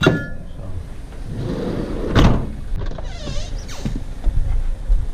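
Scrap metal being handled: a sharp metallic clink with a short ring at the start, then scraping and a loud knock about two seconds in, a sliding scrape and another knock near four seconds.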